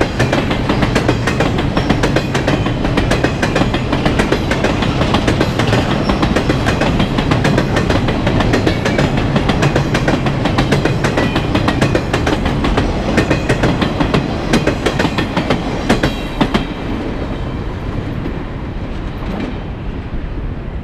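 CSX freight train rolling past close by: heavy rumble with steel wheels clicking and rattling rapidly over the rail. The high clatter fades over the last few seconds as the train moves off.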